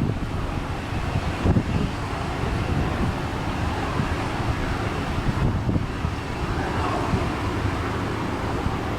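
Wind buffeting the microphone in gusts, over a steady background rumble.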